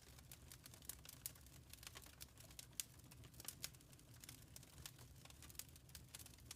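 Quiet fireplace fire crackling: irregular small pops and snaps over a low steady rumble.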